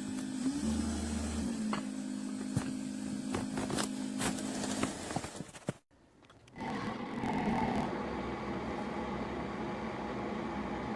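Single-serve pod coffee maker running: a steady motor hum with scattered clicks that cuts out about six seconds in, then a different steady hum with hiss.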